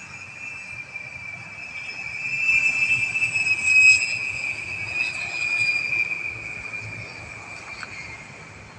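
Twin electric brushless motors and propellers of a foam RC model plane whining steadily in flight. The whine grows louder about two seconds in, is loudest around the middle as the plane passes, then fades with its pitch dropping slightly.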